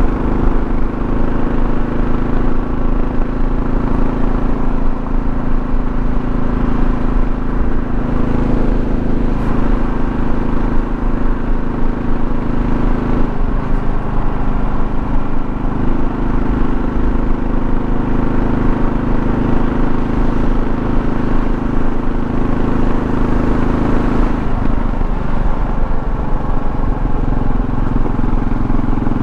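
A 2024 Kawasaki KLR650's single-cylinder engine running steadily under way, with road noise. The engine note shifts abruptly about halfway through and drops near the end.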